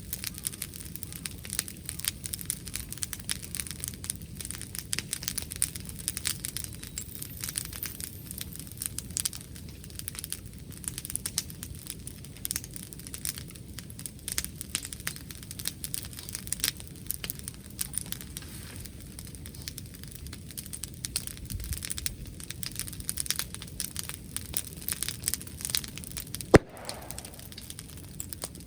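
Wood bonfire crackling and popping in irregular small snaps, with one sharp, loud snap near the end.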